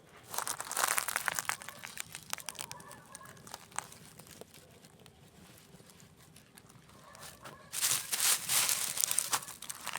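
Campfire crackling with sharp pops, flaring into two louder spells of dense crackle: one just after the start and one about eight seconds in.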